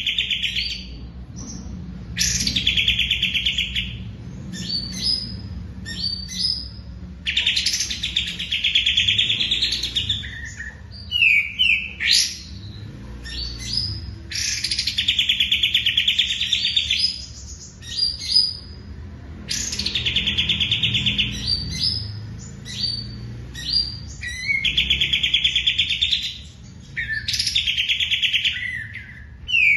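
A songbird singing a fast, rattling trill of about two seconds, repeated every four to five seconds, with short chirps and notes in between.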